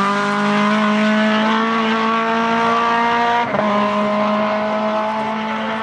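Rally car engine held at high revs on full throttle, with a quick gear change that drops the engine note about three and a half seconds in.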